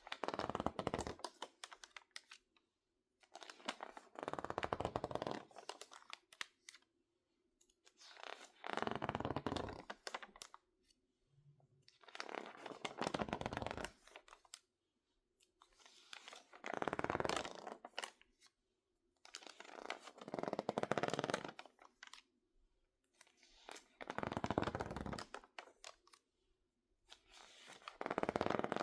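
Crinkled, water-damaged magazine pages being handled, giving a crinkly paper rustle about every four seconds, each one lasting a second or two.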